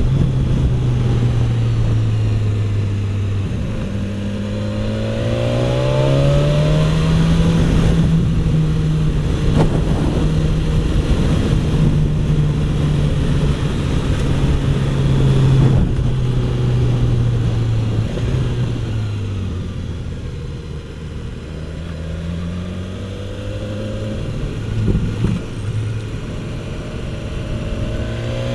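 BMW S1000XR's inline-four engine pulling along the road, with wind rushing past. The engine note rises as the bike accelerates a few seconds in, holds steady, drops away as it slows past the middle, and climbs again near the end.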